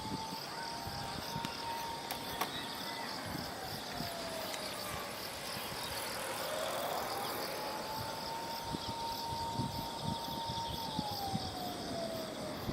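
Insects trilling steadily in pulsing high-pitched bands, over a thin tone that holds, sinks and climbs back twice, and a low irregular rumble of wind on the microphone.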